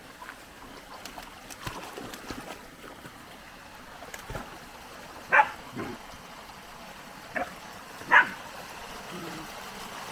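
Creek in spate running with a steady rush, broken by a few short sharp animal calls, the two loudest about five and eight seconds in.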